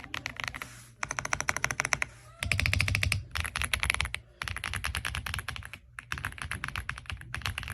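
AULA F75 mechanical keyboard with pre-lubed Reaper switches being typed on quickly, a rapid stream of keystroke clacks in several bursts with short pauses between them.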